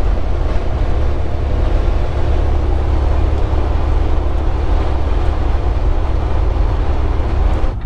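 Steady in-cab noise of a semi-truck cruising on the highway: a low, constant engine hum under an even wash of road and wind noise. It cuts off abruptly near the end.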